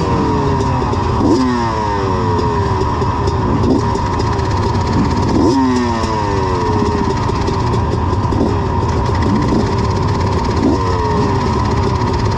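Several dirt bike engines revving hard and pulling away together, with pitch drops repeating every second or so as they shift or go past.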